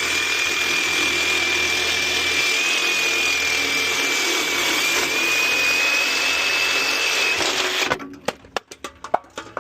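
Electric power tool cutting through a pool spa heater's metal housing to free its copper heat exchanger, running steadily with a high whine. It stops about eight seconds in, followed by a quick run of knocks and clanks of metal being handled.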